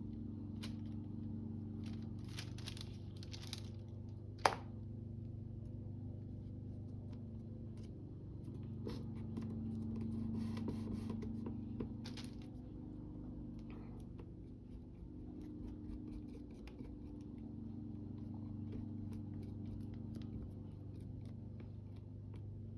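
Paper being handled while crafting: scattered rustling and scraping, with one sharp click about four and a half seconds in, over a steady low hum.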